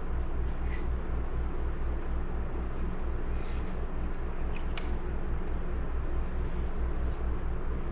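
A steady low machine hum with a slight pulse, with a few faint light clicks of small chainsaw parts being handled during disassembly.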